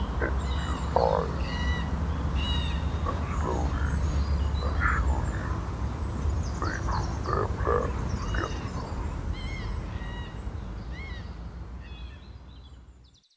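Birds chirping and calling, many short high chirps and trills with a few lower calls, over a steady low rumble; the sound fades out over the last few seconds.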